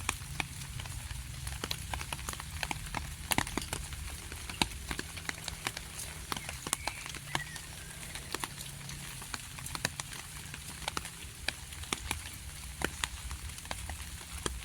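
Light rain: scattered raindrops and drips tapping irregularly, many small sharp ticks over a steady low rumble.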